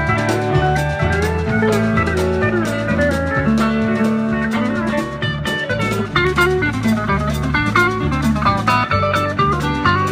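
Live country-rock band playing an instrumental break: a lead with sliding, gliding notes over bass, guitar and a drum kit keeping a steady beat. The lead moves to quicker note runs about six seconds in.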